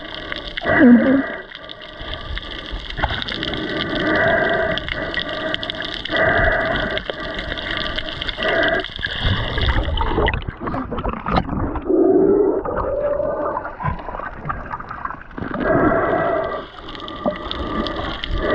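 Muffled underwater sound picked up by a camera below the surface: water rushing and gurgling around the housing, with low, wavering moaning tones that come and go.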